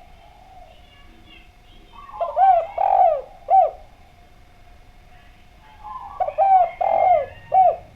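Spotted dove (derkuku, tekukur) cooing its song twice, about four seconds apart. Each phrase is a few soft lead-in notes and then several loud, clear coos. A faint steady tone runs underneath.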